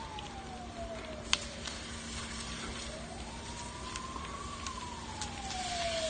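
Emergency vehicle siren in a slow wail: the pitch falls, rises again about halfway through, then falls. A sharp crack about a second in, with a few fainter ones later.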